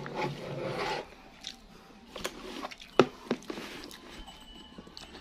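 Close-miked chewing and mouth sounds of someone eating a rice bowl by hand, with a few sharp clicks in the middle, the loudest about three seconds in.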